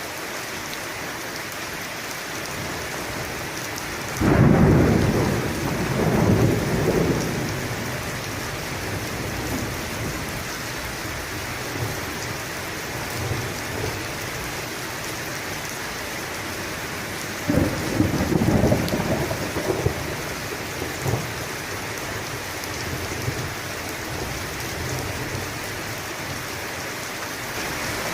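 Steady rain falling through a thunderstorm. A loud thunderclap about four seconds in rolls on for several seconds, and a second crack of thunder with rumbling comes about two-thirds of the way through, with fainter rumbles between.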